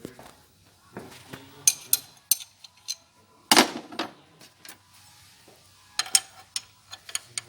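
Scattered metallic clinks and knocks of hand tools being handled and fitted on the engine, with a louder rattling clatter about three and a half seconds in.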